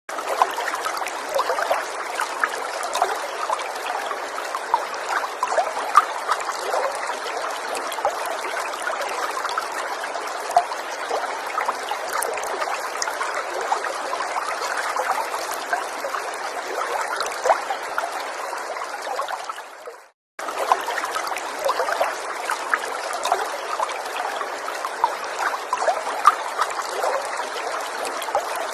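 Small forest stream trickling and babbling steadily, with many little splashes. The sound fades out for a moment about twenty seconds in, then resumes.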